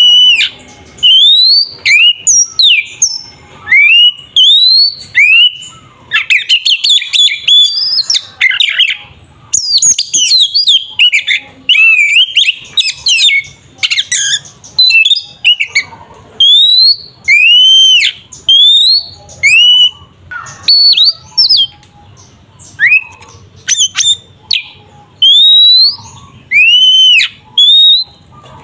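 Oriental magpie-robin singing loudly in full fighting song: repeated rising-and-falling whistled notes, broken twice by stretches of rapid, jumbled chattering phrases.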